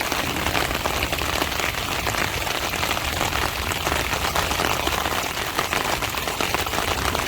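Heavy rain falling in a steady downpour, countless drops striking a tarp overhead.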